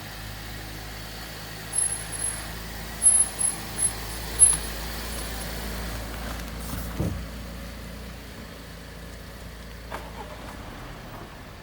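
A motor vehicle's engine running with a steady low drone, broken by several short, very high-pitched squeaks in the first half and a falling tone about seven seconds in.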